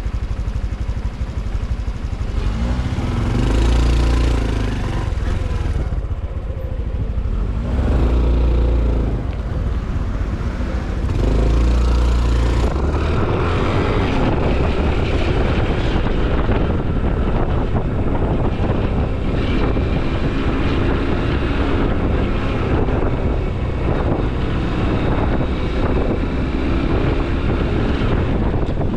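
Honda CT125 Hunter Cub's single-cylinder 125 cc engine accelerating. It rises in pitch three times as it shifts up through the gears, then runs steadily at cruising speed.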